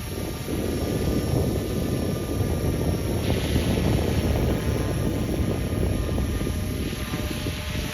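Electric RC model helicopter (T-Rex 450 with scale EC 145 rotor head) in flight, its motor and rotor giving a faint steady whine, under heavy wind rumble on the microphone from the high winds.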